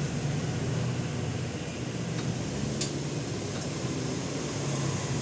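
Steady mechanical hum and hiss of workshop background noise, like a running fan, with a couple of faint clicks about halfway through.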